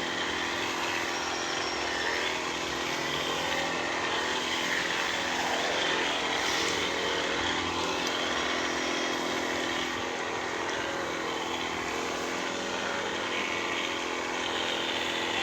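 Small petrol engine of a motorized pesticide sprayer running steadily at a constant speed while spraying.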